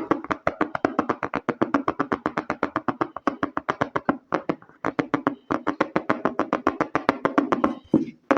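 Fast, rhythmic ASMR tapping on a hard object, about nine or ten taps a second, with a short pause a little past halfway.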